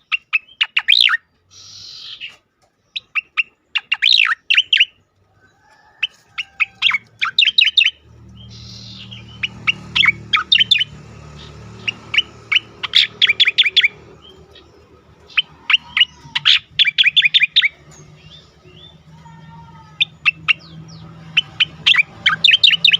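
Cica koreng (striated grassbird) singing its 'ngejoss' song: short bursts of rapid, sharp chattering notes, repeated phrase after phrase. A low steady hum runs underneath from about eight seconds in.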